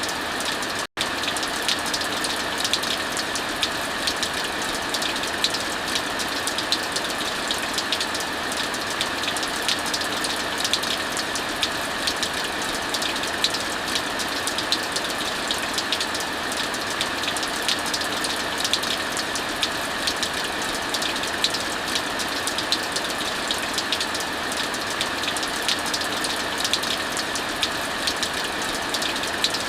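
Heavy rain falling steadily, with the frequent sharp pops of a crackling wood fire over it. The sound cuts out for an instant about a second in.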